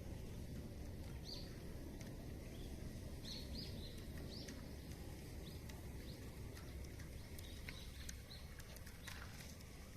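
Small birds chirping in short calls over a steady low rumble of outdoor ambience, with a few sharp clicks in the second half.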